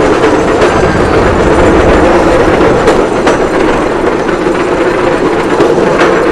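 Bamboo train (norry) running along the rails: a steady loud rumble of its small engine and wheels, with a few sharp clacks as the wheels cross rail joints.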